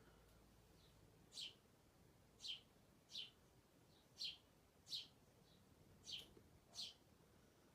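A small bird chirping: about seven short, high chirps, each sweeping down in pitch, roughly one a second, with a few fainter chirps between them.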